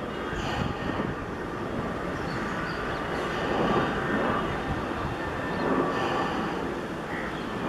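Airbus A320-214 airliner's CFM56 jet engines giving a steady, rumbling noise as the aircraft passes, swelling a little about four and six seconds in.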